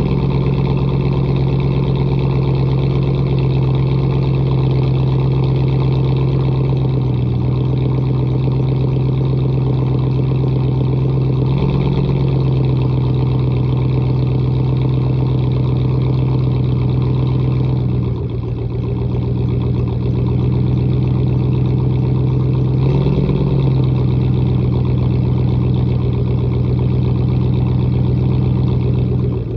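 2007 Ford F-150's 4.6-litre V8 idling after a cold start through a muffler-deleted exhaust with a 3-inch tip. The idle runs steadily, and its note shifts briefly a few times.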